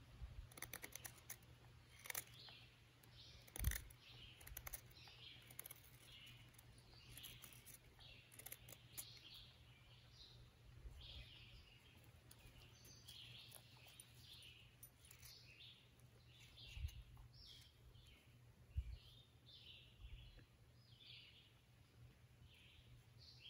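Faint chirping of small birds, with a few sharp clicks and one louder knock in the first few seconds.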